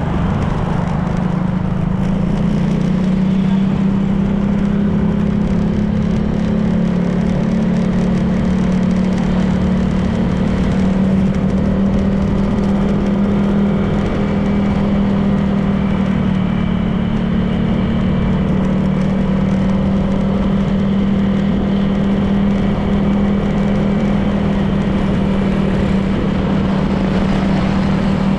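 Honda PCX 160 scooter's single-cylinder engine running steadily at cruising speed, with road and wind noise.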